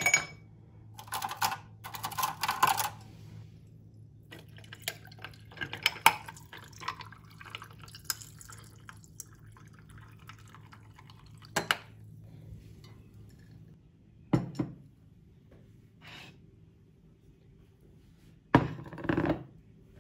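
Irregular small handling noises: light clinks, taps and rustles of objects being moved about, over a low steady hum.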